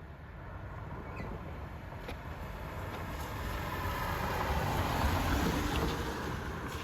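A car driving past on the road, its noise swelling to a peak about five seconds in and then fading away.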